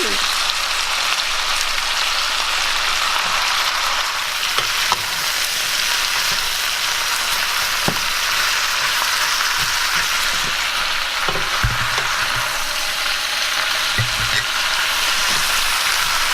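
Vegetables, chickpeas and pasta sizzling in olive oil in a sauté pan: a steady frying hiss, with a few light knocks as the pan is stirred.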